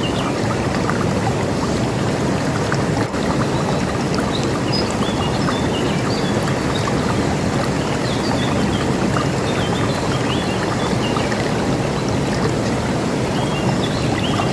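A river rushing steadily, with small birds chirping on and off above the water.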